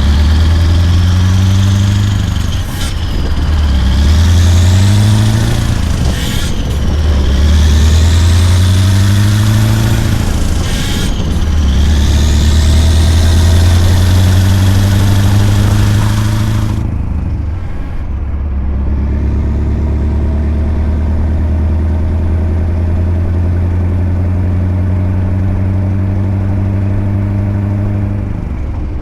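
Scania R580's 16.4-litre V8 diesel through a straight-piped 8-inch exhaust, pulling up through the gears: the engine note climbs and drops back at each shift, about every four seconds, with a high whistle rising with each gear. About 17 s in it settles into a steady cruising drone.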